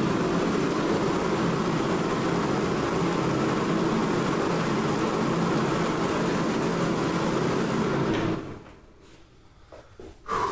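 Mr. Heater 60,000 BTU forced-air propane heater running steadily, its fan and burner flame making a loud, even noise with a low hum in it, then cutting off suddenly about eight seconds in. A short sound comes near the end.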